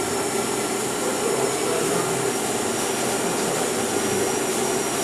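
A small machine motor running steadily, with an even whirring noise and a thin, steady high whine.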